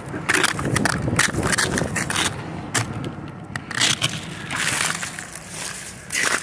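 Ice from freezing rain crunching and cracking in a string of irregular sharp strokes.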